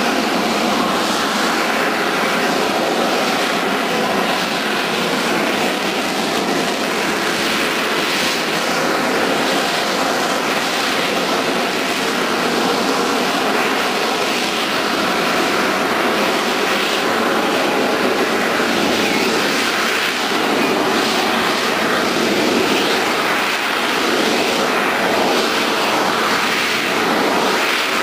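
Military aircraft engine noise, a steady, even sound with no clear rise or fall.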